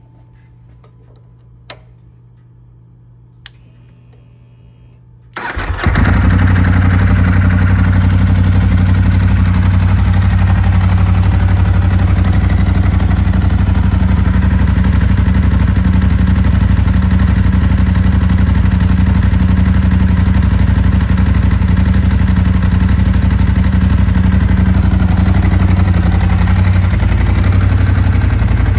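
2000 Ducati 748's 90-degree V-twin engine being started: two clicks and a brief faint whir, then the starter cranks briefly and the engine catches about five seconds in. It then settles into a steady idle at an even level.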